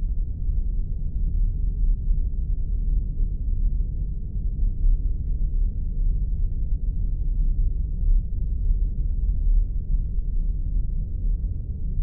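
Spaceship interior ambience sound effect: a steady low rumble that holds even throughout.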